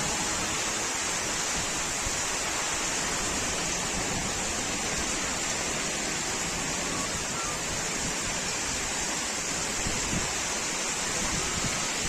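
Steady, even rush of heavy rainwater, a constant hiss with no breaks.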